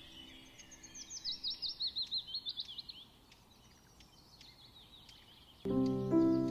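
A songbird singing a fast run of sharp, high, down-slurred notes, about six a second, then fainter scattered chirps. Near the end, calm relaxation music with long ringing tones comes in suddenly.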